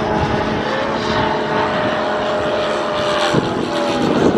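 Moki radial engine of a large-scale RC Corsair running, a steady engine-and-propeller drone whose pitch shifts slightly now and then.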